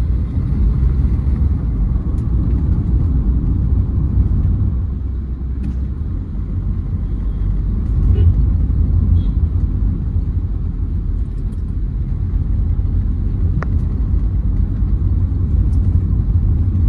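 Steady low rumble of a 2008 Hyundai Verna turbo-diesel on the move, engine and tyre-on-road noise heard from inside the cabin, easing slightly about five seconds in.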